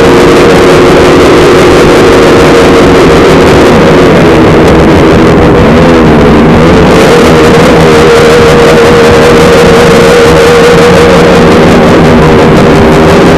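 Motorcycle engine running very loud and overloading the recording, its pitch dipping and rising a few times around the middle as it is revved, then holding steady.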